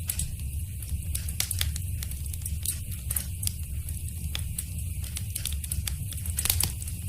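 Wood fire in a fireplace crackling: irregular sharp pops and snaps over a steady low rumble of the flames, with a louder cluster of pops about six and a half seconds in.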